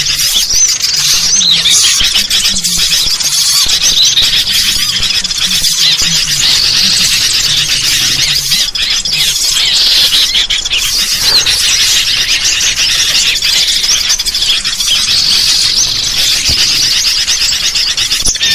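A loud, unbroken chatter of many small birds calling at once, with quick overlapping high chirps and whistles. It is a bird-lure recording of rowdy sooty-headed bulbuls mixed with small songbirds.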